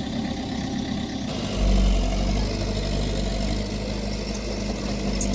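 Heavy diesel engine of earthmoving machinery running steadily. About a second in, the sound changes abruptly to a deeper, louder engine note that then holds steady.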